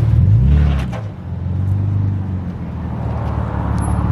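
Straight-piped BMW M4 F82's twin-turbo inline-six running at low revs while rolling slowly, with a brief rise and fall in pitch in the first second.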